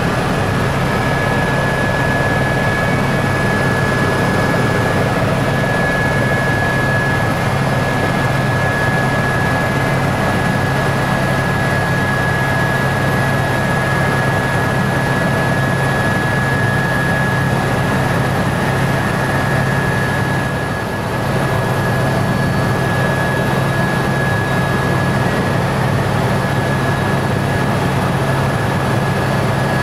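Helicopter cabin noise in flight: a steady drone of engine and rotor, with a constant high whine from the turbine or gearbox.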